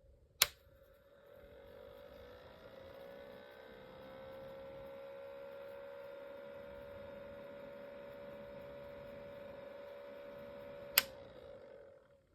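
Small ultrasonic humidifier running with a steady hum of several tones, rising slightly in pitch over the first few seconds and then holding. Sharp clicks sound about half a second in and again near the end, and the hum stops shortly after the second click.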